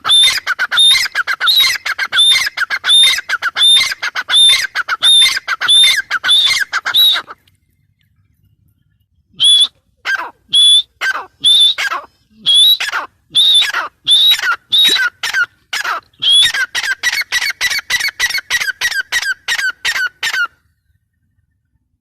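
Grey francolin calling: loud, high, harsh notes repeated rapidly in a long series. The series breaks off for about two seconds, then starts again with wider-spaced notes that speed up before stopping near the end.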